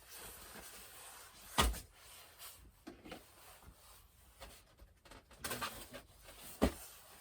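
Packaging and parts being handled: quiet rustling with two sharp knocks, one about a second and a half in and one near the end.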